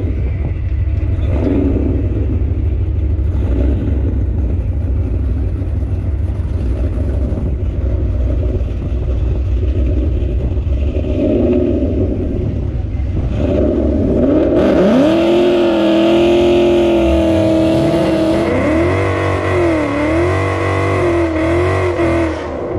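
Ford Mustang GT's 5.0 V8 with full exhaust rumbling at low revs, then revving up about fourteen seconds in. It holds high revs, with the pitch wavering up and down near the end.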